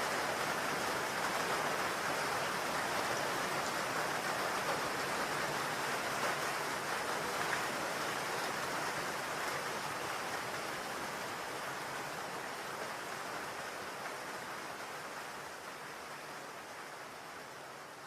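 Rain falling on a roof: a steady, even hiss of many drops that fades gradually over the second half.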